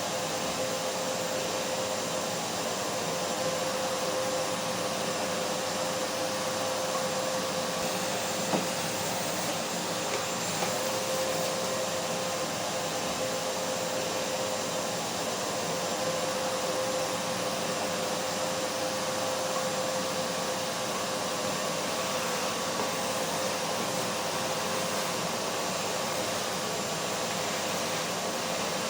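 Vacuum cleaner running steadily: an even whooshing noise with a constant hum tone over it. A brief click comes about eight and a half seconds in.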